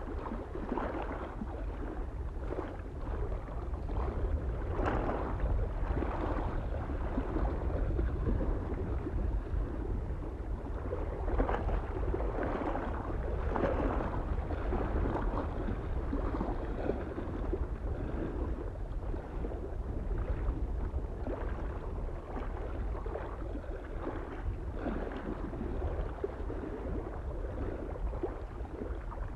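Small waves lapping and splashing irregularly against a lake shore, a fresh splash every second or so, over a low, steady rumble of soft wind.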